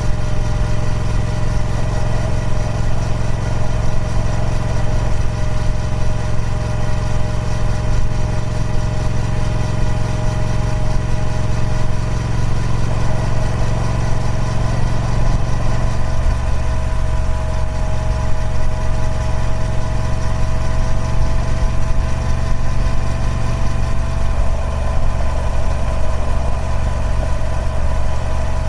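Triumph Speed Twin 1200's 1200cc parallel-twin engine running steadily through its stock exhaust, its pitch creeping slightly upward through the middle stretch.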